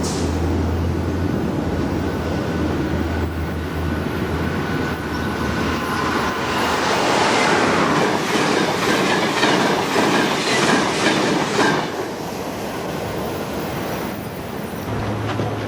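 A train passing close by, its wheels clacking rhythmically over the rail joints. The clacking is loudest from about six to twelve seconds in, then drops off sharply.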